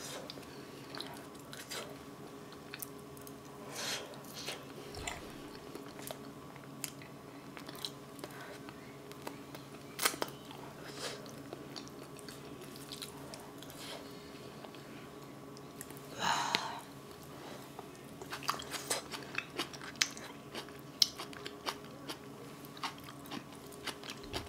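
Close-miked eating sounds: a person chewing soft boiled potato and braised kimchi, with many scattered short sharp mouth clicks.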